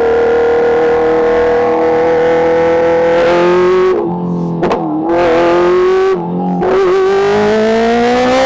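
Kawasaki H2's supercharged inline-four engine pulling hard, its note climbing steadily. Twice, about four and six seconds in, the sound briefly cuts back and the pitch drops, as at gear changes, before climbing again. Near the end the pitch falls once more.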